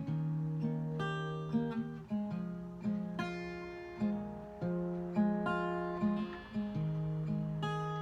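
Acoustic guitar played alone between sung lines of a song: chords and notes struck about every half second to a second, each left ringing as it fades.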